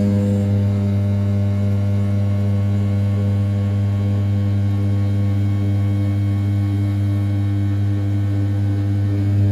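RZ420 desktop CNC mill with a 500 W brushless spindle at 6000 rpm, rough-milling the outer perimeter of an A7075 aluminium block. It gives a loud, steady hum that holds one pitch.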